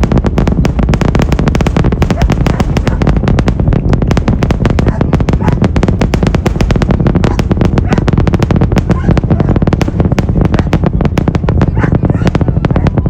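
SpaceX rocket engine noise reaching the viewing site: a loud, continuous crackle of rapid sharp pops over a deep low rumble.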